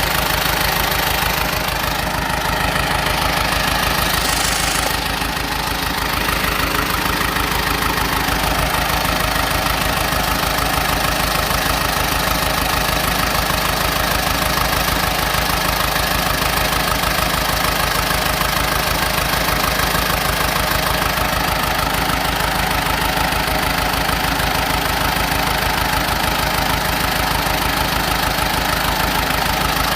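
Diesel engine of a small crawler bulldozer running steadily, with a dense, even low chugging throughout.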